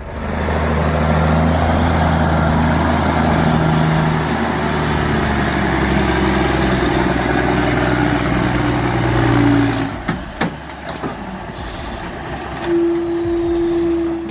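Heavy truck's engine running steadily under load, then easing off about ten seconds in with a few knocks and clunks. A single steady tone sounds near the end.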